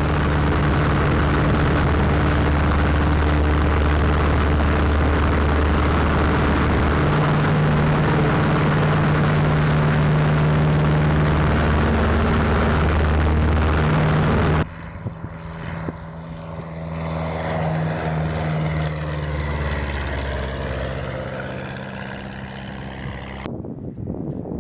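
Light propeller airplane's piston engine running steadily and loud, its pitch stepping slightly a couple of times. About fifteen seconds in, the sound cuts abruptly to a quieter propeller-aircraft sound with a sweeping, shifting hiss.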